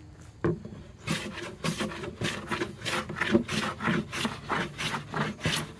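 Stanley No. 5 jack plane with a sharp iron taking short, quick strokes over a wooden board, about three a second, each a scraping hiss of a shaving being cut. The plane is worked regardless of grain direction.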